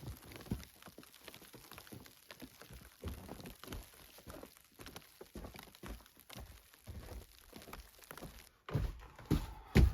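Scattered light knocks and crackles, with heavier thuds starting near the end.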